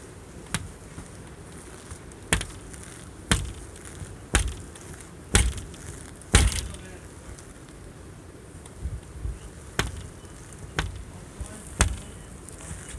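Footsteps crunching through deep snow, about one step a second, with a short pause after about six seconds before the steps resume.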